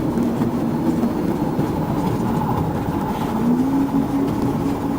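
Car engine and road noise during a high-speed police pursuit: a steady loud drone whose pitch rises a little about three and a half seconds in.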